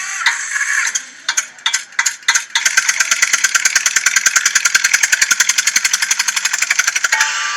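A tractor engine chugging in a fast, even beat of about ten pulses a second, which starts after a few scattered clicks and stops shortly before the end.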